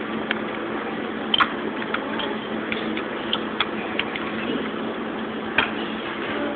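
Small clicks and taps from a baby eating noodles, scattered and irregular, with two sharper ones about one and a half seconds in and near the end, over a steady low hum.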